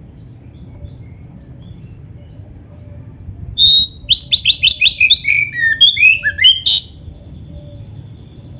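Oriental magpie-robin (kacer) singing one loud, fast phrase of about three seconds, starting a few seconds in: a held note, then a quick run of notes and a series of downward-slurred whistles. A faint low rumble sits underneath.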